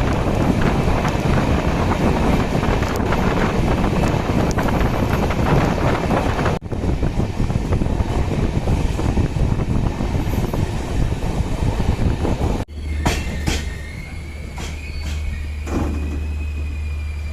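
A moving passenger train: steady rumble and rushing noise, in separate recordings that cut sharply into one another twice. In the last, quieter stretch a thin high squeal, like wheels on a curve, runs along with a few sharp clicks.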